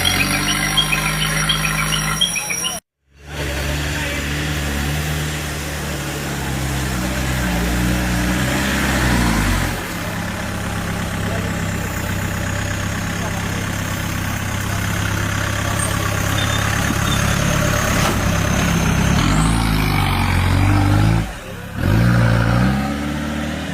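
Off-road 4x4 engine running and revving in repeated bursts, its pitch rising and falling as the throttle is worked. A moment of silence cuts in about three seconds in.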